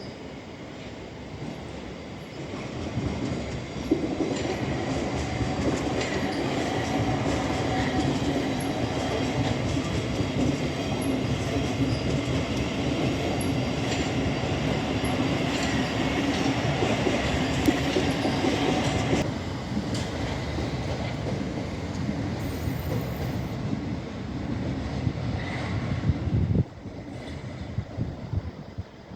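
Electric multiple-unit passenger train running along the platform road, with wheels clattering on the rails and a steady drone under a level whine. It builds about three seconds in, stays loud until about two-thirds of the way through, then eases and drops away sharply near the end.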